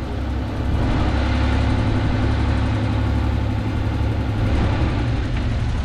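Bulldozer's diesel engine running steadily: a loud, low rumble with a faint steady hum above it through the middle.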